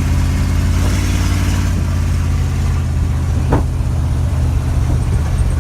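1978 Dodge truck's engine running steadily at idle, a deep even hum.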